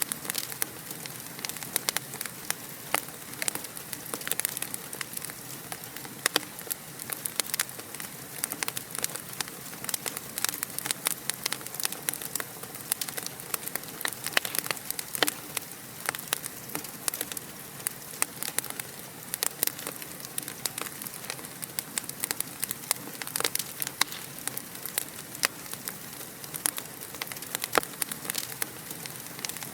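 Fire in a fireplace crackling, with many irregular sharp pops and snaps over a steady soft hiss.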